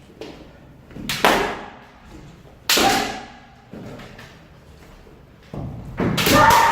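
Kendo sparring: sharp cracks and thuds of bamboo shinai strikes and stamping footwork, about a second in, near three seconds, and again near the end, where a long, loud kiai shout rises with the last attack.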